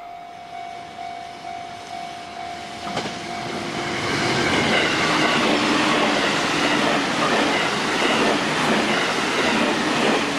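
An electric multiple-unit passenger train passing close by, its wheels running over the rail joints with a clickety-clack; the sound builds from about three seconds in and stays loud once the cars are alongside. A steady thin whine is heard before the train arrives.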